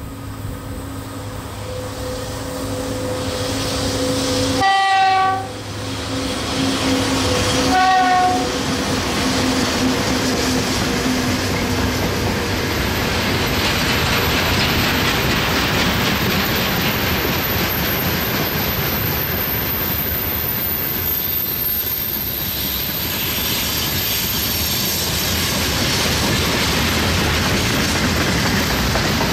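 VL80S electric locomotive approaching with a steady hum and sounding its horn twice, a longer blast then a shorter one about three seconds later, as it nears. Then the freight train's wagons roll past with wheels clacking over the rail joints.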